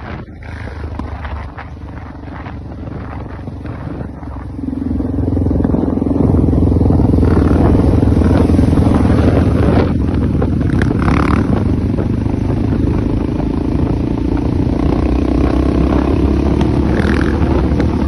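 Honda XR650L's air-cooled single-cylinder four-stroke engine running, moderate at first, then growing much louder about four and a half seconds in and staying loud and steady under throttle.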